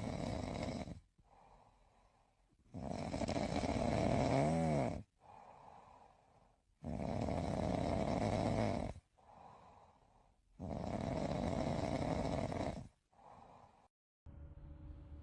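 A sleeping pet snoring in a slow, even rhythm: four loud snores of about two seconds each, roughly four seconds apart, each followed by a short, faint breath.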